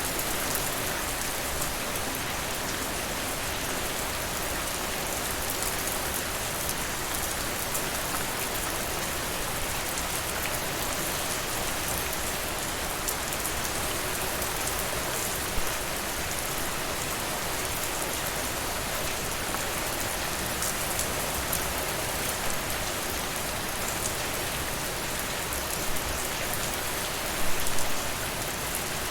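Steady rain falling on a surface, an even hiss with fine pattering drops. Brief sharper pops stand out about halfway and in a short cluster near the end.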